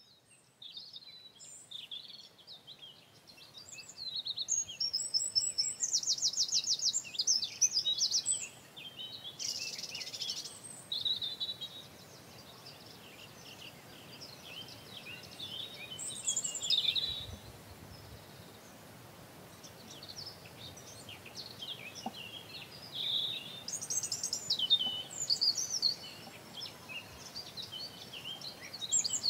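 Songbirds singing: a busy mix of high chirps, whistles and fast trills, loudest from about four to eight seconds in and again near the end.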